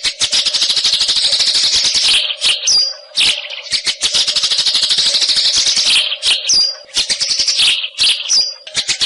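White-rumped shama (murai hutan) singing in long, very fast rattling trills of two to three seconds each, broken by short pauses. A brief high whistled note comes three times between the trills.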